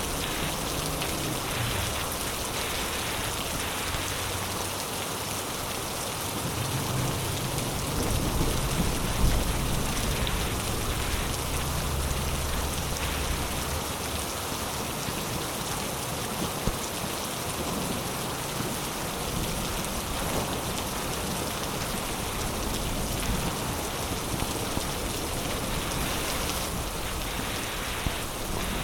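Heavy rain falling steadily, a dense even hiss of drops on surfaces. A low rumble sits under it for a few seconds in the middle.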